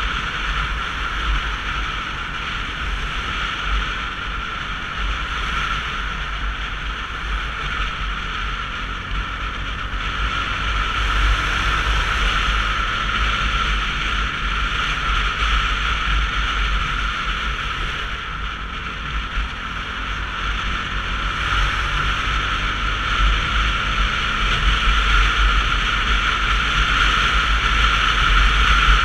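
Wind buffeting the camera and road noise while riding a Sinnis Terrain 125cc motorcycle: a steady rushing hiss over a heavy low rumble. It grows louder about ten seconds in, eases briefly, and swells again near the end.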